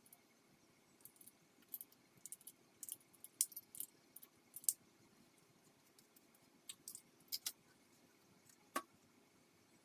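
Scattered faint metallic clicks and clinks from small tools or parts being handled, irregular and a few per second at most. A slightly heavier clink comes near the end.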